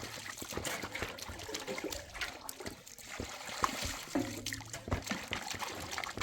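Water trickling and splashing, with scattered small knocks and clinks.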